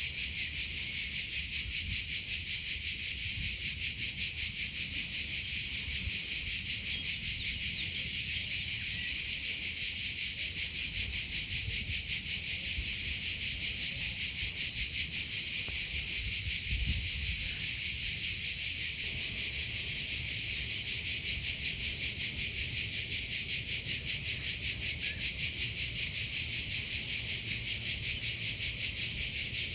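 Crickets chirping continuously in a high, steady, rapidly pulsing trill that does not let up.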